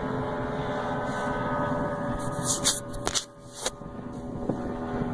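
A boat motor running steadily, with a few short, sharp noises about two to four seconds in.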